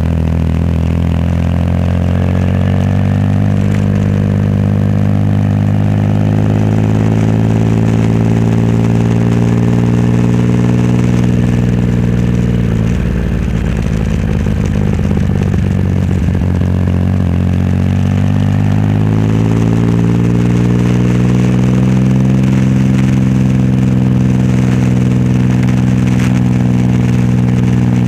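Triumph Rocket 3 Roadster's 2.3-litre inline three-cylinder engine running through a custom exhaust under way. The engine note climbs gradually, drops away a little past the middle, then climbs again and holds steady near the end.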